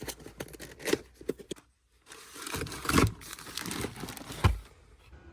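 Rustling and crinkling handling noise with a scatter of sharp clicks, broken by a short dead gap about two seconds in.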